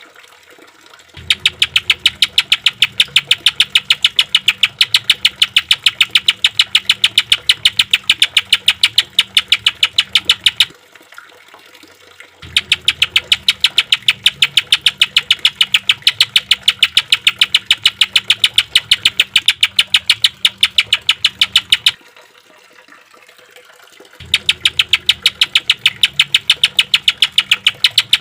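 Green leafbird (cucak ijo) giving a harsh, rapid-fire rattle of identical notes, the 'tembakan' burst, in three long runs of about ten seconds with short pauses between them.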